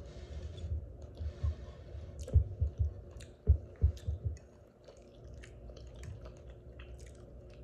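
Close-miked chewing of soft food, with wet mouth clicks and irregular low thumps from the jaw, busiest in the first half.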